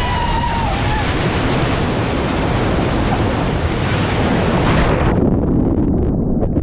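Loud rough-sea noise: waves crashing and rushing, with strong wind buffeting the microphone. About five seconds in, the hiss abruptly turns duller as the high end drops away.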